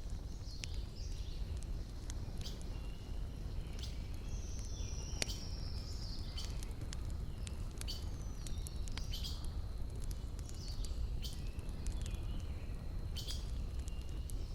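Wood fire crackling with sparse sharp pops over a steady low rumble, while forest birds call with high chirps and a long sliding whistle about four seconds in.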